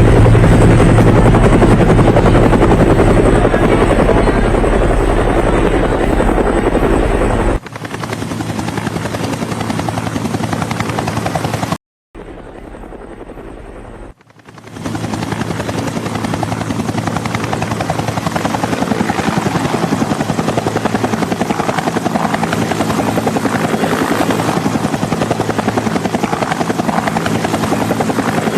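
Helicopter rotor and engine running steadily, heard in several abruptly spliced takes: about a quarter of the way in it cuts to a quieter take, then drops out briefly near the middle before the helicopter sound returns and runs steadily again.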